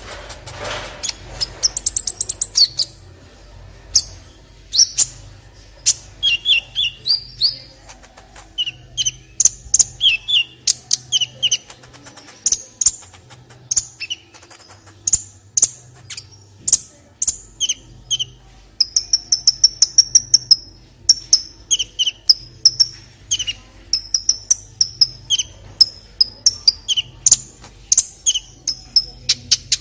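Kolibri ninja sunbird singing: a rapid string of short, sharp high chirps and twitters, with a fast trill about twenty seconds in.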